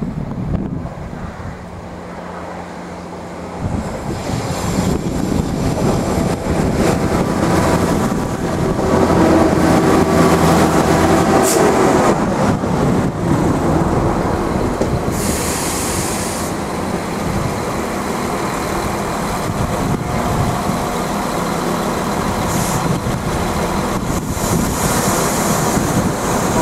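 Irish Rail 22000 class diesel multiple units at a station: the underfloor diesel engines drone and the wheels run on the rails. The sound builds a few seconds in and is loudest near the middle, where the engine note drops. Two short bursts of high hiss come later.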